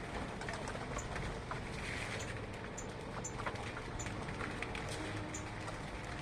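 Small bird giving short, high chirps at irregular intervals, a few a second at most, over a steady low rumble.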